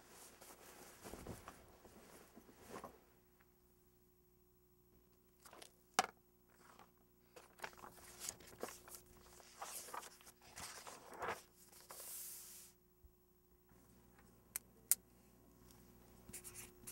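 Scattered small handling sounds in a quiet small room: soft rustles and scuffs, a few sharp clicks, and a brief zip- or tear-like swish about two-thirds of the way through.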